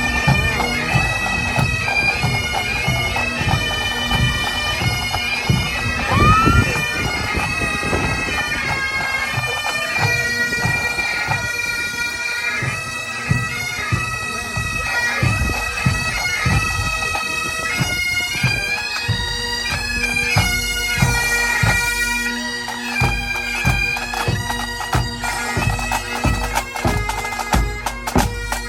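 Bagpipes playing a tune over a steady drone, with drum beats underneath. A short rising whistle sounds about six seconds in.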